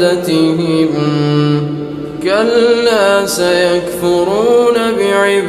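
A male voice reciting the Quran in slow, melodic tajwid, drawing out long held notes that slide in pitch, with a brief pause for breath about two seconds in.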